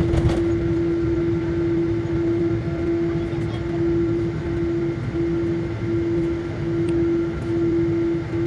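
Jet airliner cabin noise in flight: a steady low rumble with a constant hum that wavers in a regular pulse. There is a brief knock at the very start.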